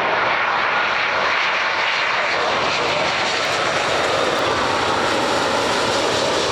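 Jet engines of a Boeing 787 airliner on landing: a loud, steady rushing roar with no breaks.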